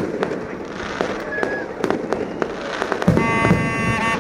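Fireworks going off with many sharp bangs and crackles in quick succession. About three seconds in, a steady held tone joins them.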